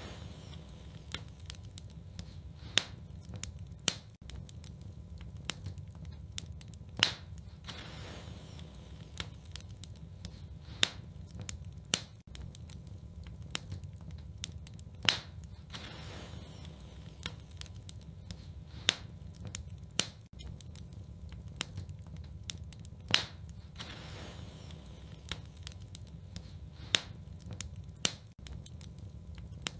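Wood fire burning in a fireplace: a steady low rumble of flames with irregular sharp crackles and pops, one every second or so, a few of them much louder, and brief soft hisses between.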